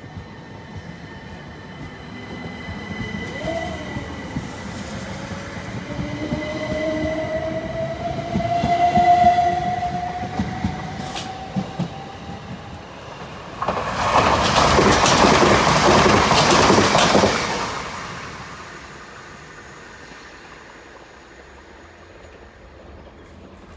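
Southern Class 377 electric multiple unit pulling away, its traction motors whining and rising steadily in pitch as it accelerates, with a rhythmic clatter of wheels on the rails. About fourteen seconds in, a loud rush of train noise starts suddenly and lasts about four seconds, then dies down to a faint rumble.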